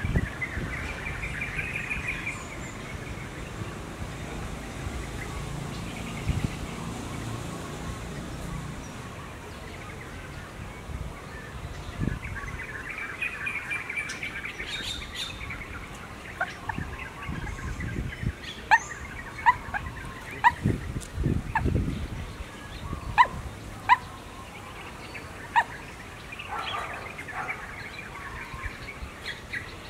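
Birds chirping: a series of short, sharp chirps, most of them in the second half, over a low steady background rumble.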